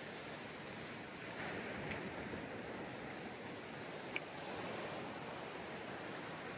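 Ocean waves washing onto a beach, a steady surf swelling a little about one and a half seconds in. A brief high chirp cuts through about four seconds in.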